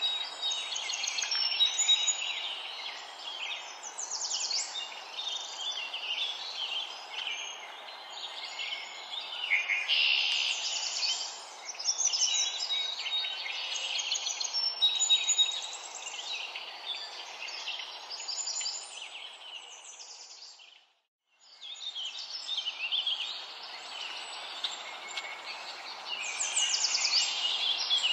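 Many birds chirping and singing over a steady hiss, with the sound cutting out briefly about three-quarters of the way through.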